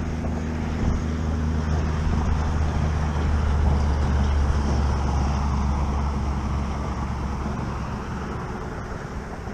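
Low, steady drone of a boat motor that grows louder toward the middle and fades away near the end.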